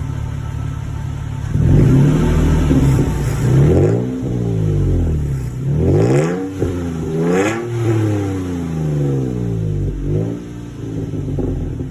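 Third-generation Toyota Tacoma's engine through a Carven aftermarket exhaust: idling, then revved up and down several times, the two highest revs near the middle, before settling back to idle near the end.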